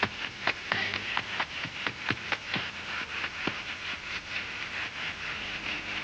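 A run of sharp, irregular taps or clicks, about three or four a second, which die away about three and a half seconds in, over a steady film-soundtrack hiss.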